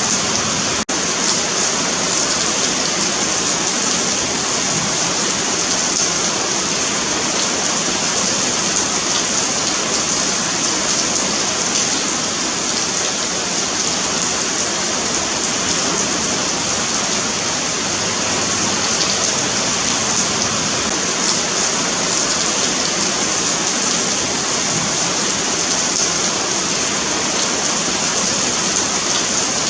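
Steady rain falling on a pavement sidewalk: a dense, even patter of drops with a bright, hissy top end. About a second in there is a brief dropout in the sound.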